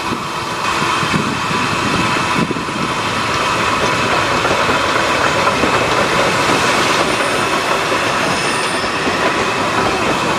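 Welsh Highland Railway narrow-gauge train rolling into the station, its wheels running steadily on the rails and growing a little louder, with a faint high squeal in the second half.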